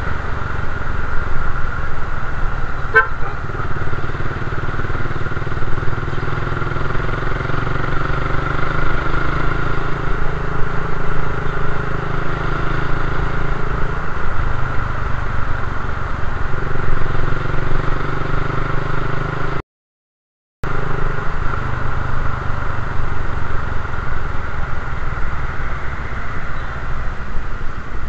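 Suzuki Raider 150 carburettor motorcycle's single-cylinder engine running steadily at low speed in traffic, heard from the rider's position, with the sound of the street around it. The sound cuts out completely for about a second about two-thirds of the way through.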